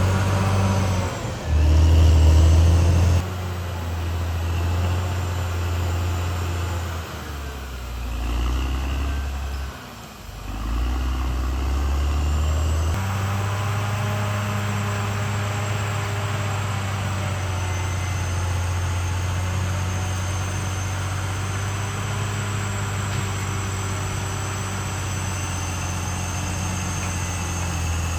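Diesel engine of a Caterpillar D6R XL bulldozer running, loudest in the first few seconds, with its note changing abruptly a few times before settling into a steady run.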